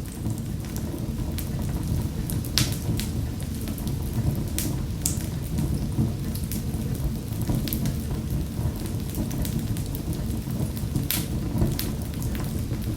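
Wood fire crackling in a fireplace: a steady low rumble of burning with scattered sharp pops and snaps, a few close together about two and a half seconds in, around five seconds in and again near the eleventh second.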